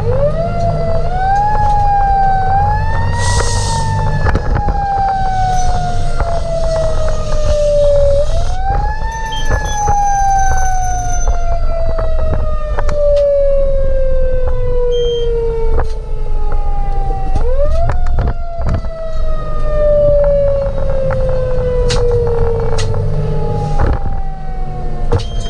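Fire engine siren wailing: each cycle rises quickly, then slides slowly down in pitch, three times, over the truck's engine rumble.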